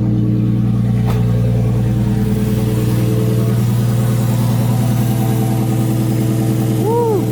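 Toyota 1JZ-GTE twin-turbo straight-six running at a steady idle just after its first start in a newly swapped car. A short tone rises and falls near the end.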